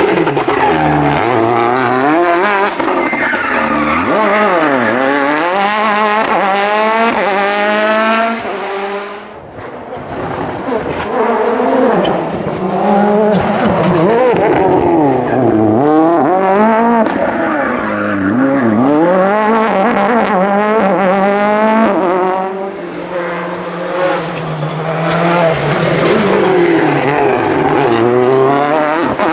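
World Rally Car engines driven hard, the pitch climbing and dropping again and again as the cars rev through gear changes, with tyres skidding. The sound dips briefly about nine seconds in, then picks up again.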